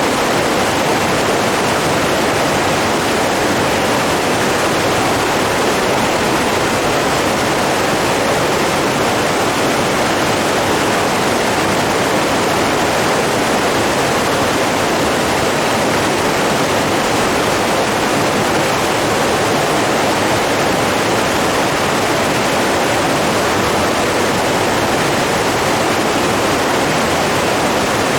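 Steady rushing water, an even unbroken roar of flow like a stream or small waterfall, with no change in strength.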